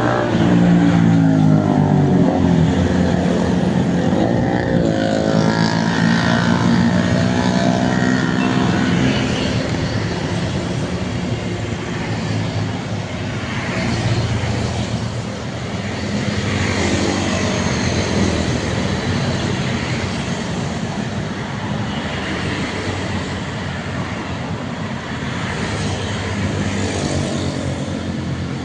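Road traffic: diesel truck and other vehicle engines passing by in a continuous stream, their pitch bending as each one goes past.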